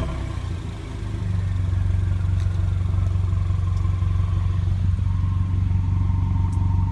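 Ford Mustang EcoBoost's turbocharged four-cylinder idling steadily through a muffler-delete exhaust, settling about a second in after a rev dies away.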